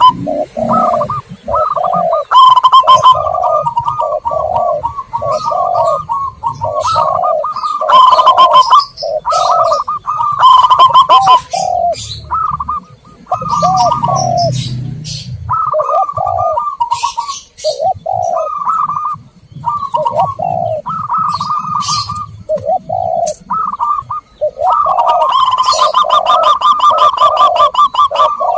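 Zebra doves and spotted doves cooing over and over in overlapping phrases, with high bird chirps mixed in: a dove lure recording.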